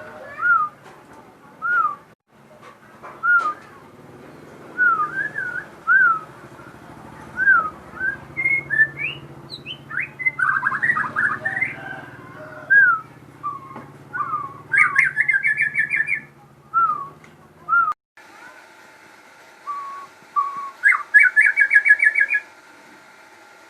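Crossbred murai songbird singing in full voice: a run of short, clear whistled notes about one a second, broken by fast trilled phrases about fifteen and twenty-one seconds in.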